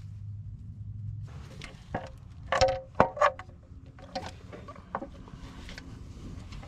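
Metal tools and engine parts clinking and knocking, a handful of sharp strikes with a short metallic ring, the loudest about two and a half to three seconds in.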